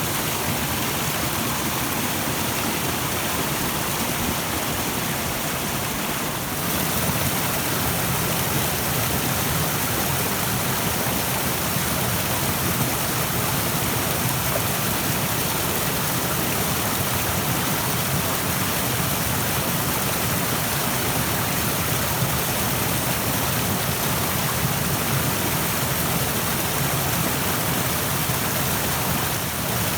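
Rushing stream: a steady, even wash of flowing water, stepping up slightly in loudness about six seconds in.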